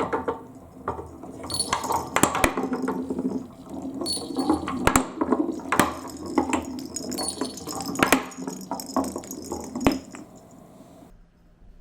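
Marbles rolling down a marble-run track, rattling with many irregular clicks and bright ringing clinks as they knock together and against the track. The rolling stops suddenly about 11 seconds in.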